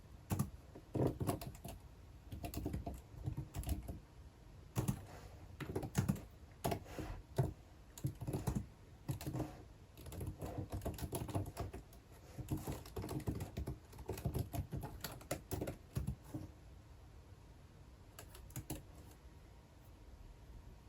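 Typing on a computer keyboard: runs of quick keystrokes in bursts with short pauses, thinning to a few strokes near the end.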